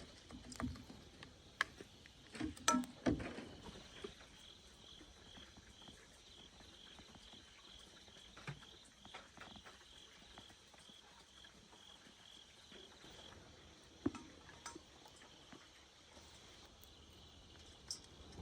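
Scattered knocks and clicks of things being handled, loudest in the first three seconds. Behind them a faint high insect chirp repeats about twice a second for roughly ten seconds, then stops.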